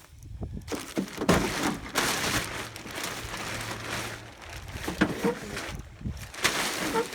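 Rustling, crackling noise with a few knocks, in two stretches broken by a short pause about six seconds in.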